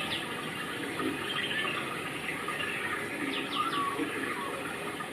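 Steady rushing, water-like noise with scattered faint high sounds, and a quick run of three or four short falling chirps about three and a half seconds in.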